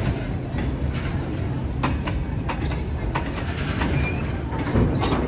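Freight train of tank wagons rolling past close by: a steady rumble of the wagons with sharp clacks as the wheels run over the rail joints, about two a second.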